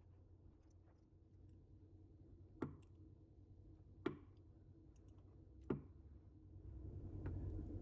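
Three sharp clicks or knocks, evenly spaced about a second and a half apart, over a faint low hum. A steady noise builds near the end.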